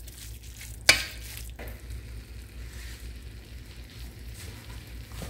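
Ground beef and gravy mixture sizzling steadily in a hot cast iron skillet. A metal spoon clinks sharply against the pan about a second in, and more lightly just after.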